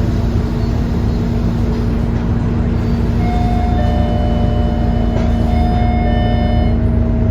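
Scania K230UB single-deck bus with its 9-litre five-cylinder diesel idling steadily at a stop. About three seconds in, a steady multi-tone electronic sound joins the drone and stops near the end.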